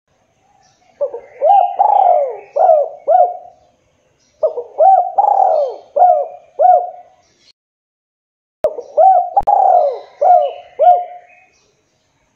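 Spotted dove (tekukur) cooing: three phrases of four or five coos each, with short pauses between them.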